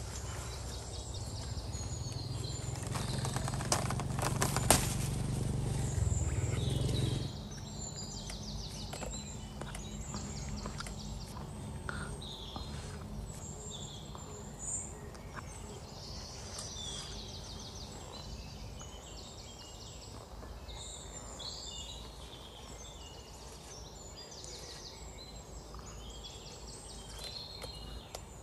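Small birds chirping and trilling again and again. A low rumbling noise runs under them for the first seven seconds and stops suddenly, with a couple of sharp clicks about four to five seconds in.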